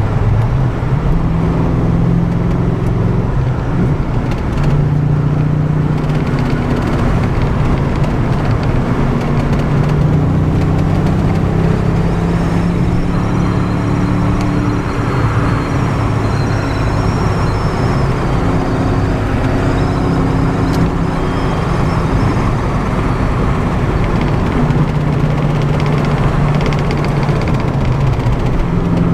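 1987 Ford Mustang GT's 5.0 V8 running while driven, its engine speed rising and falling, over steady road and tyre noise.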